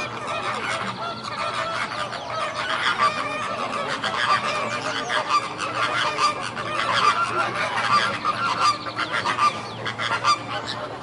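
A flock of flamingos calling continuously, many overlapping goose-like honks at once.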